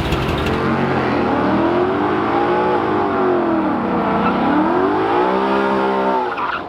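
A drag-racing car's engine is revved hard, its pitch rising and falling twice. The sound breaks off abruptly just before the end.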